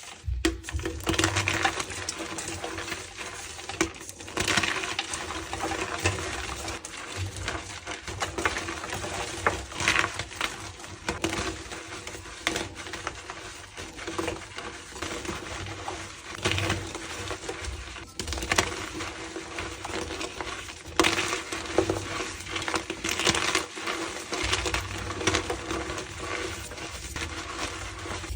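Blocks of reformed gym chalk being crushed and crumbling, a continuous run of dense crunching and crackling with louder crunches every second or two.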